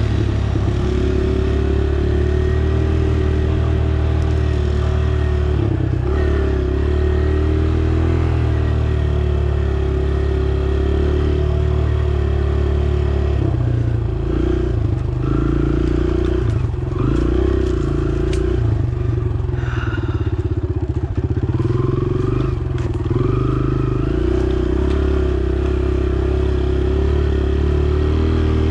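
Dirt bike engine running under way at a steady pitch, then rising and falling with the throttle through the middle stretch, with rattling clicks from the bike over rough ground.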